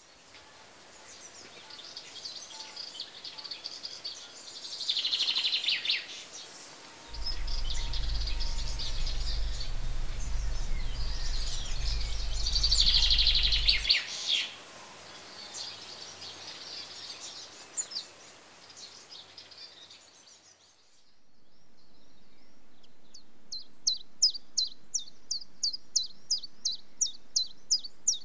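Outdoor birds chirping and singing in bursts over a faint steady hiss, with a low steady hum for about seven seconds in the middle. After a break about three-quarters of the way through, a single high chirp repeats evenly about three times a second.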